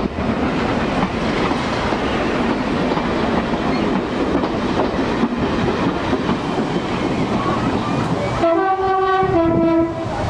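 Train running along the track with a steady rumble of wheels on rails, then near the end a two-note horn sounds for about a second and a half, a higher note followed by a lower one.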